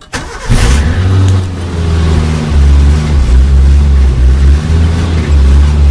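Suzuki SJ413's 1.3-litre carburetted four-cylinder engine cold-starting: it cranks briefly, catches almost at once and runs loud and steady with slight surges. It was primed with HHO (hydrogen-oxygen gas) after sitting, and the owner calls the start a lot better than usual.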